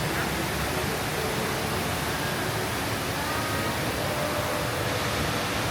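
Steady rush of water falling in the Rain Vortex, a large indoor waterfall, with faint voices of people around it.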